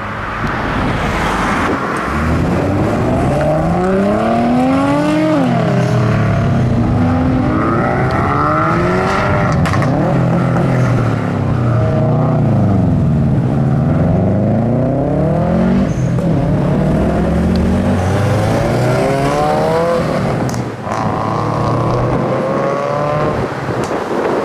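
Modified car engines revving hard as several cars accelerate away one after another, the engine note climbing and dropping back again and again with the gear changes and overlapping as cars pass.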